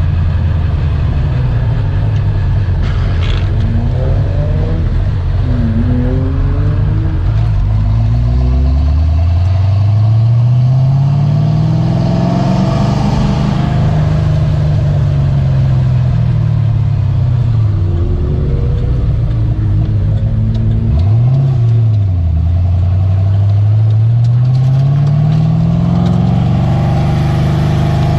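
Car engine under hard acceleration over a steady low drone. Its note climbs for several seconds, holds, then falls away; it dips and recovers sharply about three-quarters of the way through, then climbs again near the end.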